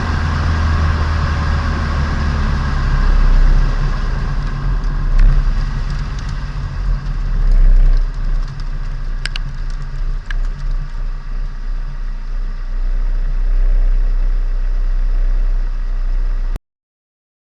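Turbocharged Nissan Micra engine running at low revs, near idle, its note dropping about two seconds in, with a few light clicks in the middle. The sound cuts off suddenly near the end.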